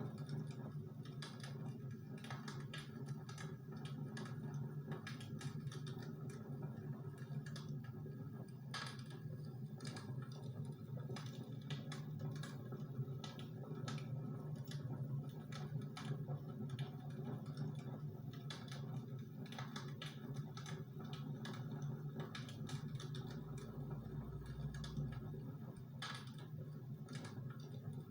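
Close-miked ASMR eating sounds: a dense, irregular stream of small crisp clicks and crackles from chewing and mouth noise, over a steady low hum.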